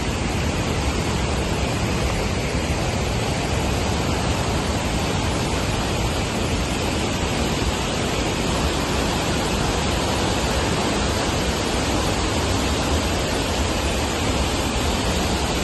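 Heavy rain falling, a steady, even rush of noise that neither builds nor breaks.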